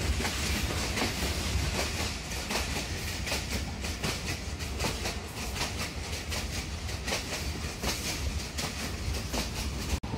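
Running noise of a Pakistan Railways passenger train heard from aboard a coach: a steady low rumble and rushing hiss, with rapid clicking of the wheels over rail joints. The sound cuts out briefly near the end.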